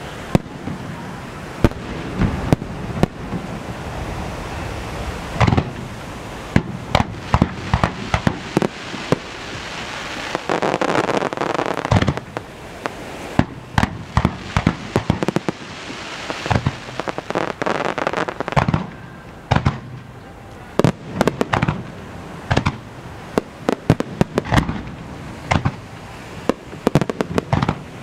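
Aerial firework shells launching and bursting in rapid, irregular succession: many sharp booms and bangs over a continuous rumble, with a dense run of crackling pops about ten seconds in.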